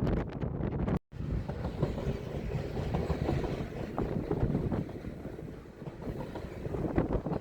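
Canadian National train running by, a steady low rumble with scattered clicks of wheels on rail, and wind buffeting the microphone. The sound drops out completely for an instant about a second in.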